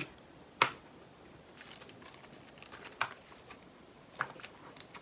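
A few sharp plastic clicks and taps from handling diamond painting drill bags and storage pots, the loudest about half a second in and others near three and four seconds in.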